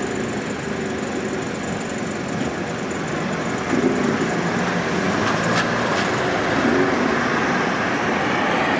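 JR Gotemba Line train running on the track, a steady rumble of wheels on rails that grows a little louder about halfway through.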